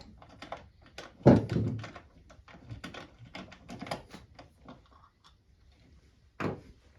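Clunks, knocks and rattles of the loosened stock exhaust being worked free and pulled off a dirt bike, with a loud thump a little over a second in and another near the end.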